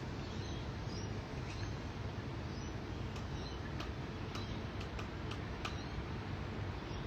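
Cockatoo working at a nut with its beak: faint scattered clicks and ticks, every half second to a second or so, over a steady background hiss.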